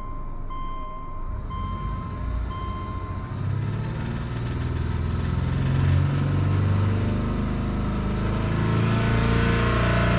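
Subaru Legacy 2.5i flat-four engine running, with a car warning chime beeping about once a second for the first three seconds. About three and a half seconds in the engine note grows louder and holds steady. The owner is trying to tell whether an engine noise is knock, piston slap or a tensioner pulley.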